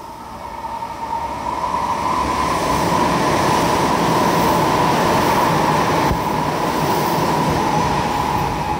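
Meitetsu electric train running along the platform, wheels and motors rumbling, with a steady high ringing whine over it. The sound builds over the first two seconds as the cars come alongside, then holds loud.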